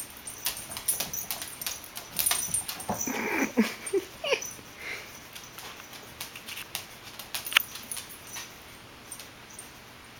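A dog gives a few short whimpering vocal sounds about three to four and a half seconds in, amid scuffling and light tapping from rough play. A single sharp click comes later.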